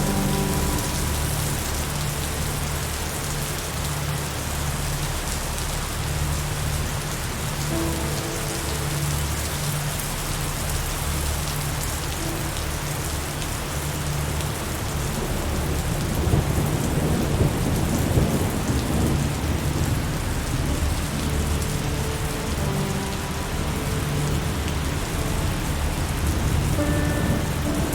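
Steady heavy rain with a low thunder rumble beneath it, which swells and grows more uneven a little past halfway.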